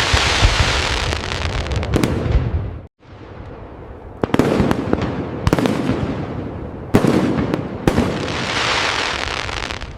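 Fireworks display: aerial shells bursting with sharp bangs and long trailing crackle. A dense stretch of crackling breaks off suddenly about three seconds in, then four separate sharp bangs follow, each trailing off into crackle.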